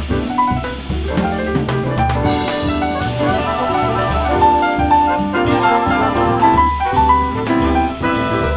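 Jazz ensemble music: drum kit keeping time under brass and other instruments playing many moving notes.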